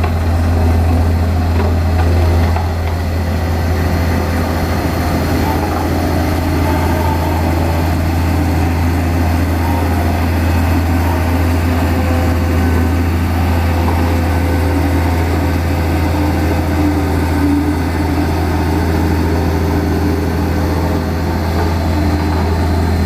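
Heavy diesel road-building machinery running steadily at work, with a strong, even low hum.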